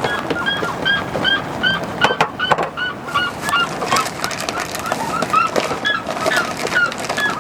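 A bird repeating a short, hooked call over and over, about three times a second, over a steady hiss with scattered sharp ticks.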